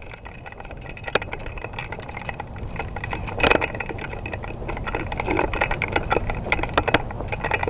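Rattling and crackling of worn gear and brush as a person moves, over a low rumble of handling noise, with a few sharp clicks; the loudest click comes about halfway through.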